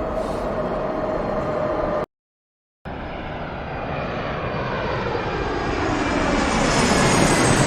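A noisy sound with a steady tone cuts off about two seconds in; after a short silence, a sound effect of an aircraft approaching begins, growing steadily louder and brighter with falling sweeps in pitch as it nears.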